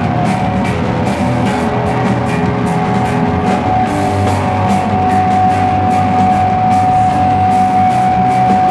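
Slowcore/noise rock band playing live: dense guitars over drums and cymbals. A single high guitar note is held steadily, growing louder from about halfway in.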